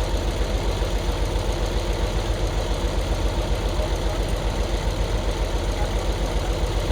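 Diesel engine of a heavy dump truck idling with an even, steady pulse.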